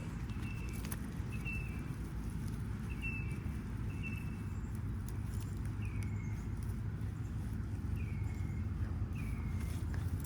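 A bird calling over and over in short high notes, the later ones sliding down in pitch. Beneath it runs a steady low rumble, with faint crackles and rustles of hands digging in garden soil.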